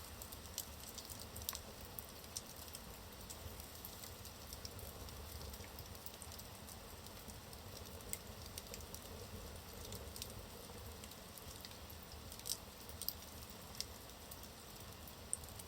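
Wood fire burning in a fireplace: a soft steady hiss with irregular crackles and pops from the burning logs, a few sharper pops standing out.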